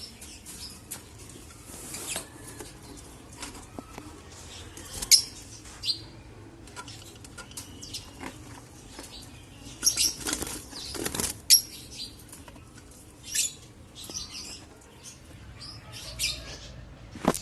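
Lovebirds flapping their wings in irregular short bursts.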